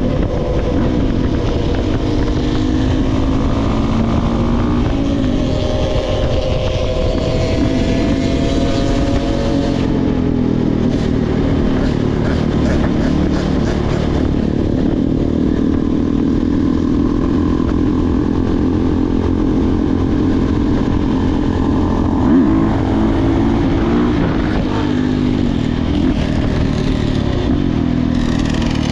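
Dirt bike engine running while being ridden, its pitch rising and falling as the throttle changes.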